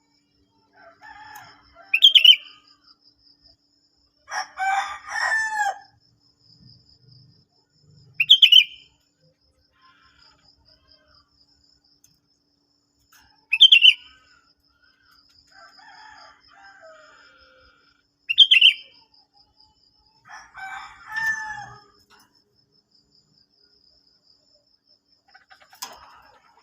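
Sooty-headed bulbul calling: loud short call notes about every five seconds, with longer bubbling phrases between them.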